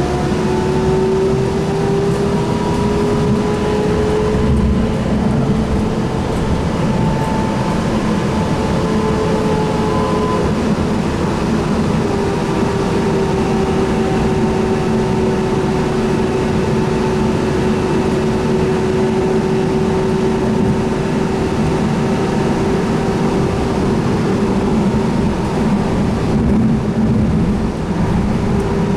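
Sound Transit Link light rail car running between stations, heard from inside: a steady rumble of wheels on rail with the electric traction motors' whine. The whine's pitch climbs a little over the first few seconds as the train picks up speed, then holds steady.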